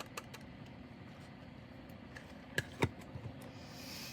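A few small plastic clicks and taps over a faint steady hum, with two sharper ticks about two and a half seconds in: diamond-painting drills and their small storage containers being handled.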